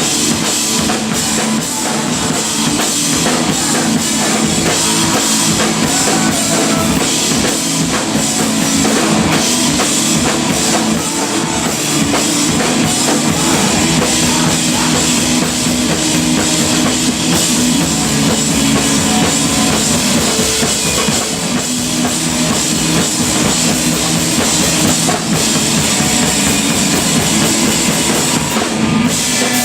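Live rock band playing loudly, with the drum kit to the fore over guitars in a heavy, metal-leaning style.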